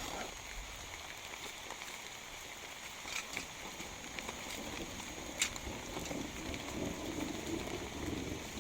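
Heavy rain falling steadily, with scattered drops ticking sharply, the clearest about five seconds in. A low muffled rumble joins in over the last few seconds.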